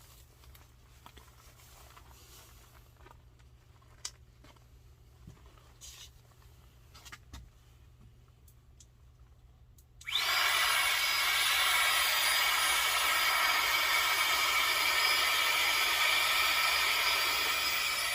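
A small electric motor switches on about ten seconds in and runs steadily at a high whine for about eight seconds, then spins down with a falling pitch at the very end. Before it only faint clicks of handling are heard.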